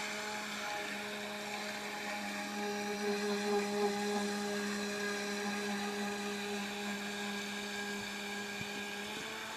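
Electric motor of a radio-controlled carp bait boat running in a steady whine, its pitch shifting slightly near the end.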